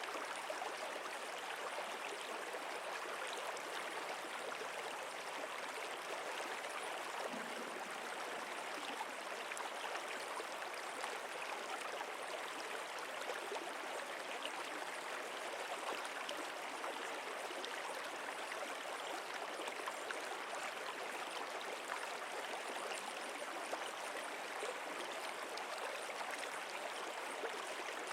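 Flowing stream water: a steady, even babble that does not change.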